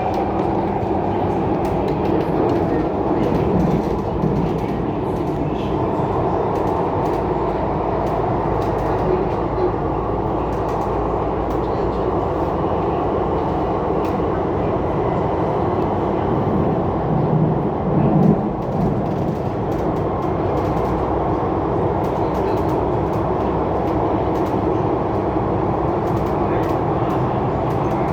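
Steady running noise inside a CRRC Changchun EMU (MTR C-Train) passenger car as the train travels between stations, with brief louder swells about 3 seconds in and again about 17 seconds in.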